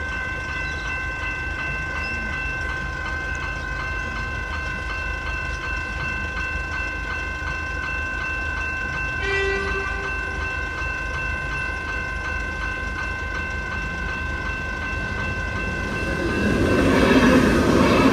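Level crossing electronic bell ringing in a fast, steady pulse as the crossing is activated. About nine seconds in a short horn sounds, and near the end an approaching train's noise rises loudly over the bell.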